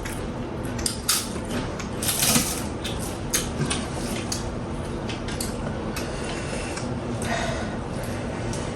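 Tableware clinking and scraping during a meal, with scattered sharp clicks and a longer scrape about two seconds in.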